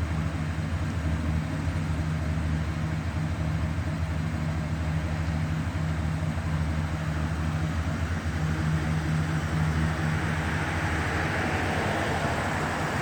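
A vehicle engine running steadily with a low hum, and a wider hiss swelling near the end.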